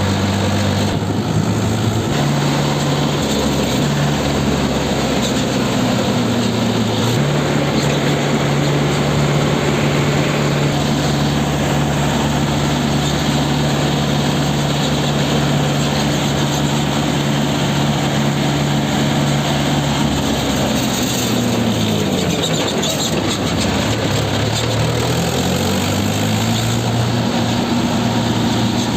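Tractor diesel engine running under way, over a heavy wash of road and wind noise. Its pitch steps up twice early on, drops away about three-quarters of the way through as it slows, then climbs again as it picks up speed near the end.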